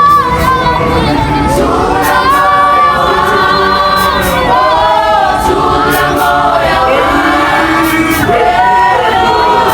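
A group of voices singing together in harmony, choir-style.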